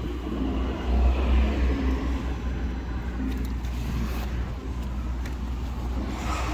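A car running with a steady low rumble that swells briefly about a second in.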